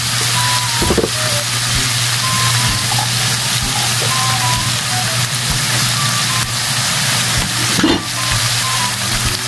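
Food frying in a steel wok: a steady sizzling hiss, with a couple of short clatters of the metal spatula against the wok, about a second in and again near the end. A steady low hum and faint short musical tones run underneath.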